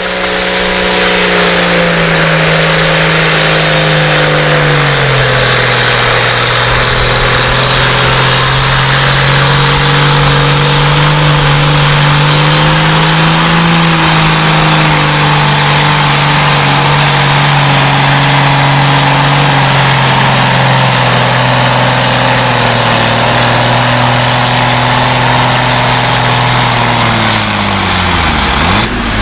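Pulling tractor's engine running hard and loud under load. Its pitch drops about five seconds in and stays there, rises slightly around the middle, then sags and falls away sharply just before the end as the run stops.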